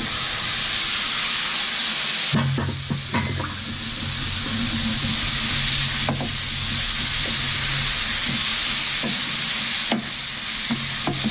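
Marinated chicken pieces sizzling in hot oil in a stainless steel frying pan, stirred with a wooden spoon that knocks and scrapes against the pan now and then.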